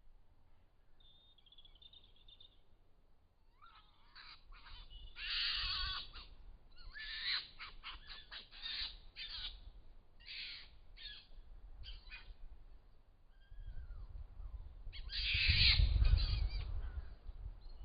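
Harsh, screeching animal calls in a rapid series of bursts, with two louder bouts, the second over a low rumble. The recorders take them for foxes fighting or a fox killing something.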